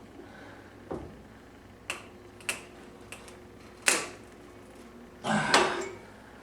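Stud welder gun firing against the truck's sheet-metal body panel: three sharp snaps spread over a few seconds, with a faint steady hum between them and a short rough burst near the end. The stud gun is arcing and sparking without welding well to the body.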